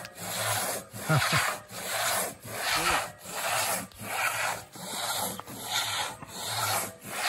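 Two-person crosscut saw cutting through a fallen tree trunk by hand. Its long teeth rasp through the wood in steady push-pull strokes, about one and a half a second.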